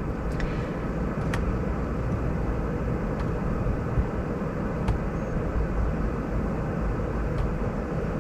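Steady low rumble of background noise inside a car, with a few faint clicks.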